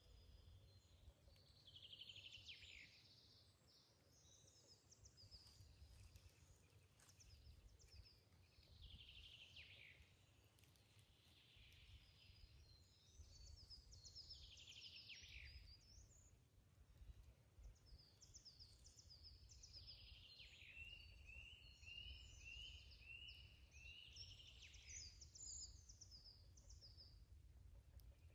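Faint songbirds singing in a forest, a high song phrase every few seconds, several ending in quick falling notes, over a steady low rumble.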